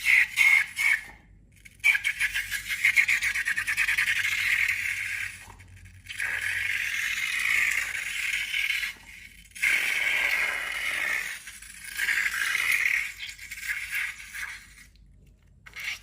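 Slime being squeezed and worked, heard as crackly, rattling squishing in a handful of bursts of one to three seconds with short pauses between.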